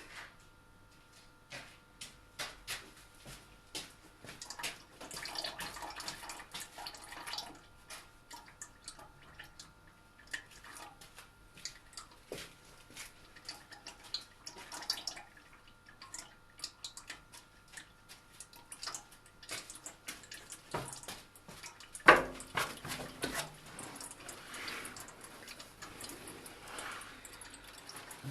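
Old black engine oil draining from the sump of a Mazda 6's 2.0 petrol engine into a catch container, running and dripping with many small ticks. A single sharp knock comes about 22 seconds in, followed by a steadier run of liquid.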